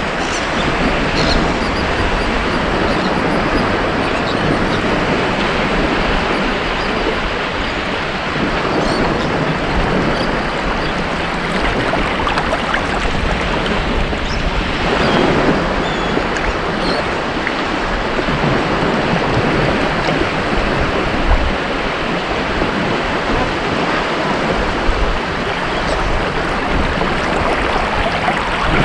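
Ocean waves breaking and washing on a beach, a steady surf with a slight swell about halfway through.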